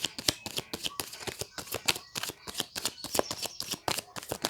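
A deck of tarot cards being shuffled by hand: a quick, irregular run of sharp clicks and slaps, about five or six a second.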